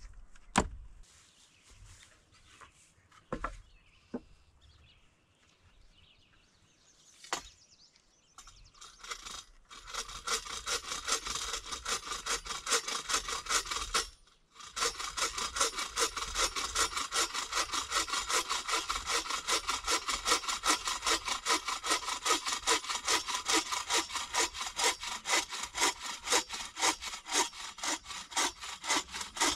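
Hand saw cutting through wood in quick, even back-and-forth strokes, about three a second, starting about a third of the way in with a short pause near the middle. A few sharp wooden knocks come before it.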